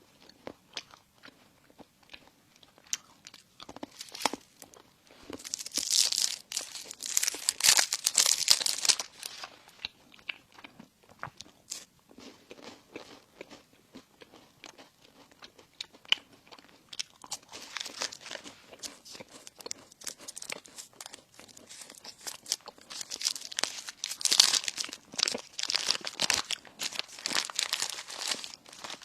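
Close-up eating: a person bites and chews crispy bread and sesame buns, with crunches and smacking chews. There are two longer, louder spells of crunching, one about a fifth of the way in and one near the end.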